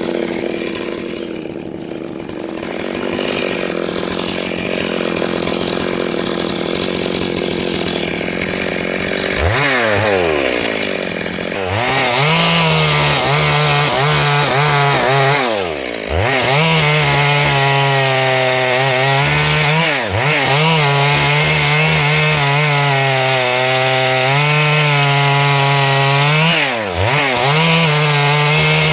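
Chainsaw cutting wood. About ten seconds in it revs up to full throttle and holds a high, steady pitch, which dips sharply and recovers about four times.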